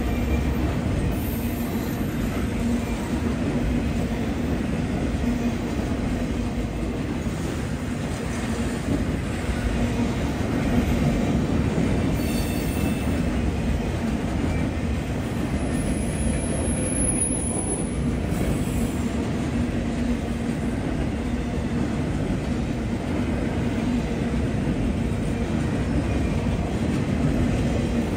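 Freight train cars rolling past on the track with a steady rumble, and a brief high wheel squeal a little past halfway.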